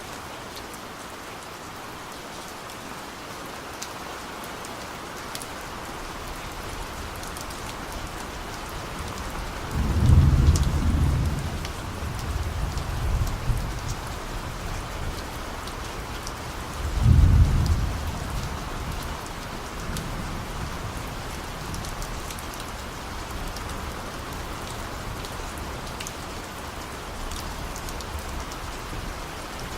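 Steady rain falling, with distant thunder rumbling twice, about a third of the way in and again near the middle, the rumbles trailing off slowly.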